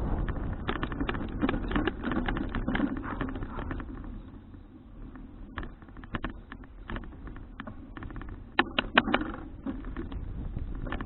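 Folding bicycle rolling along, heard through an action camera's microphone: wind rush that eases off after about four seconds, with irregular clicks and rattles throughout and a short burst of louder clicks near the end.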